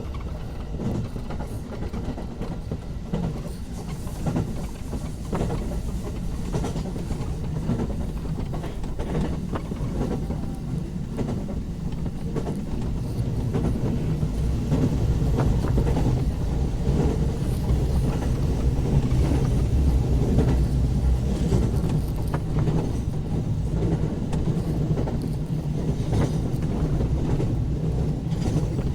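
Electric commuter train running along the track: a steady low rumble of wheels on rail with scattered clicks, growing louder about halfway through.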